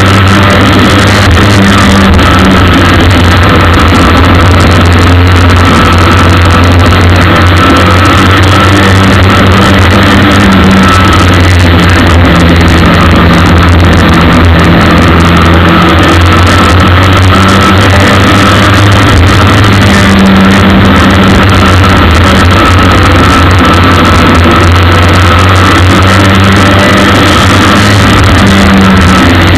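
Ministock racing car's engine running steadily under load in a race, heard loud from a cheap onboard camera inside the car.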